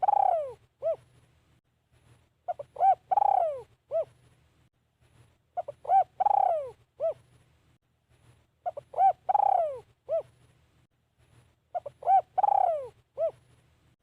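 Spotted dove cooing: the same phrase repeated about every three seconds, each a couple of short quick coos, a long drawn-out falling coo and a short final coo.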